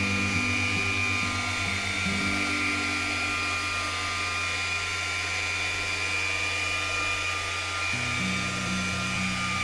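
Dual-action polisher running steadily with a high whine as it buffs car paint, with background music playing.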